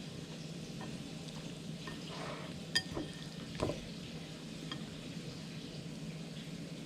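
Light clinks of a utensil against kitchenware, two sharper ones near the middle, over a steady low hum.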